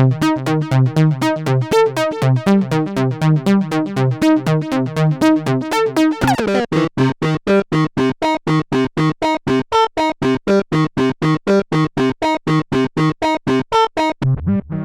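Roland SE-02 analog monosynth playing a fast sequenced line of about six notes a second while its factory presets are stepped through. A bit over six seconds in the patch changes to short, clipped notes with gaps between them, and another patch comes in just before the end.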